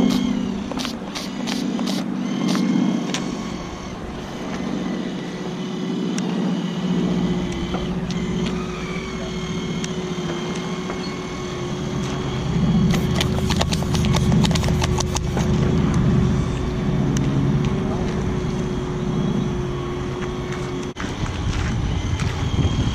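Bursts of sharp rapid pops from model warships' cannons firing, about a second in and again about halfway through, over a steady hum.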